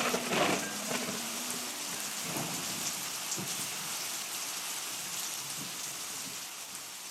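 Rain sound effect at the close of the dance music: a steady hiss of falling rain that slowly fades out.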